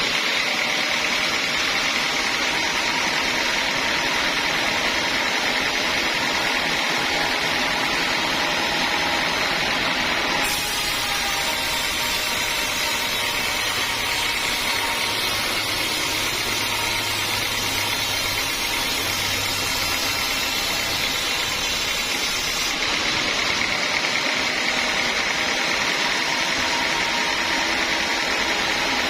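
Sawmill band saw running steadily on teak logs. A brighter hiss sets in abruptly about a third of the way in and stops about three quarters through.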